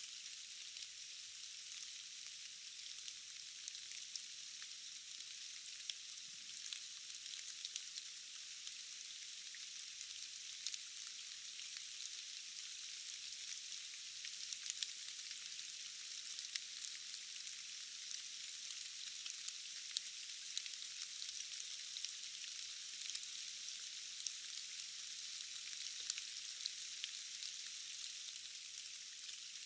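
Steady rain falling, an even high hiss with many small scattered drip ticks.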